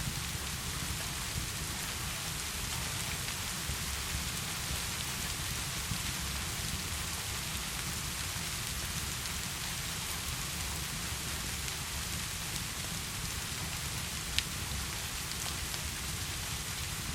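Steady heavy rain falling, with a low rumble underneath and a few sharp clicks, the sharpest about fourteen seconds in.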